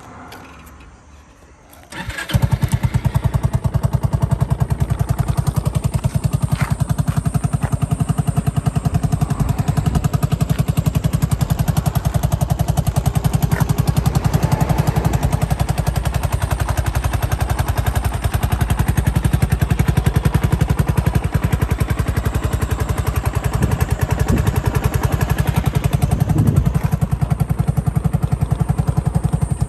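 A 2003 Honda Forza scooter's water-cooled four-stroke single-cylinder engine starts on the electric starter about two seconds in, then idles steadily and evenly, a sign of an engine in good running order.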